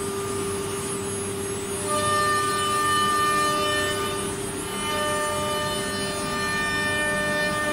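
CNC router spindle whining steadily as it cuts wood, with higher overtones that come and go every second or two as the cutter works through the material.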